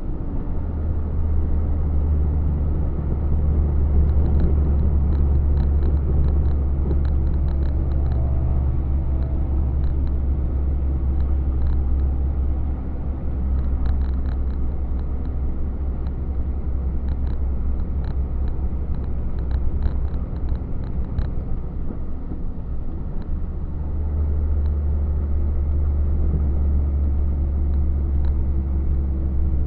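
Truck running along the road with a steady low engine drone that eases for a couple of seconds late on, with faint light ticking rattles.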